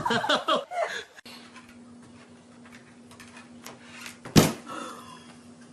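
A dog yipping and barking in the first second, then a quieter room with a steady low hum and a single loud knock about four seconds in.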